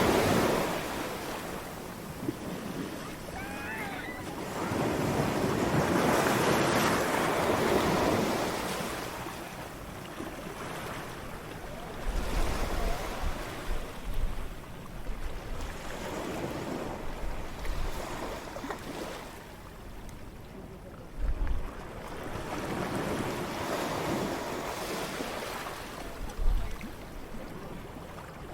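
Ocean waves breaking and washing in, the surf swelling and fading every several seconds, with the biggest waves near the start and about six seconds in. In the second half, gusts of wind buffet the microphone with low rumbles.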